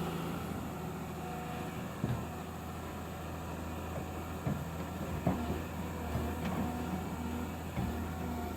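Heavy machine's diesel engine running steadily, with a few short knocks and clanks about 2 and 5 seconds in.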